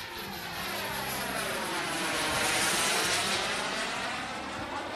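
JetCat P80SE turbine of a BVM Bandit model jet in a flyby: its whooshing roar grows louder to a peak about halfway through, then fades as the jet passes.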